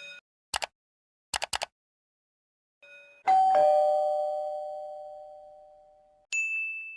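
Doorbell chime sound effect: a two-note ding-dong, a higher note then a lower one, ringing out for about three seconds. A few short clicks come before it, and a single high ding sounds near the end.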